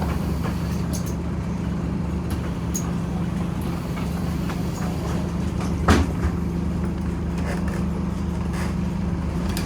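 Scania OmniCity bus heard from inside the cabin, its diesel engine running at a steady pitch with a constant hum. A single sharp knock about six seconds in.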